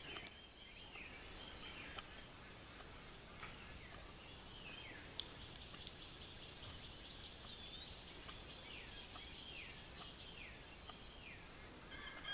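Faint outdoor birdsong: short swooping chirps repeating about once a second over a steady high hum, with a single sharp click about five seconds in.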